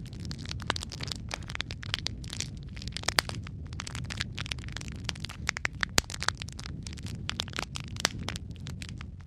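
Wood fire burning in a fireplace: a steady low rumble of flames with frequent irregular crackles and pops, a few sharper snaps standing out.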